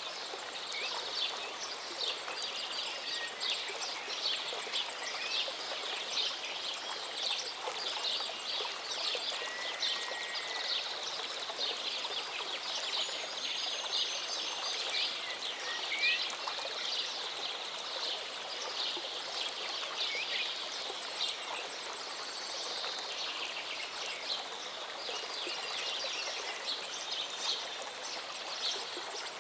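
A small mountain stream running steadily, with many songbirds chirping and singing over it, including a few clear sliding whistles.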